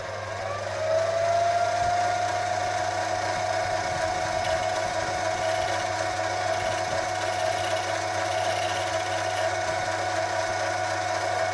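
Lathe motor running with a steady whine that rises in pitch about a second in and then holds, while a shoulder is turned on a steel shaft.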